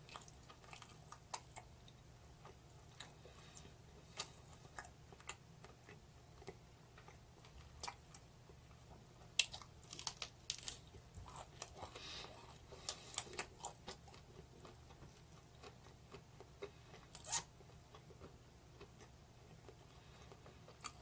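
Faint chewing of roast chicken: soft scattered crunches and mouth clicks, a few louder ones about halfway through and again near the end, over a low steady room hum.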